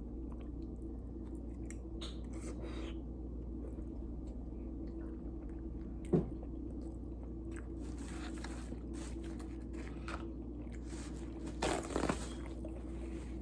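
Close-miked chewing and biting as a person eats, over a steady low hum. There is a sharp click about six seconds in and a louder cluster of eating sounds near the end.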